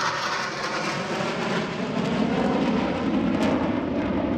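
Aircraft passing overhead, a rushing engine roar that slides down in pitch as it goes by.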